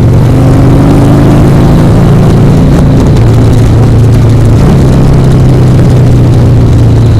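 Harley-Davidson Sportster 1200's air-cooled V-twin running loud and steady while riding at road speed, its pitch rising slightly in the first second or so.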